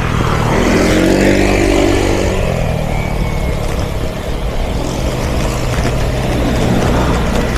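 A car passes close by, its engine note rising and then falling over the first couple of seconds, over a steady low rumble of road noise.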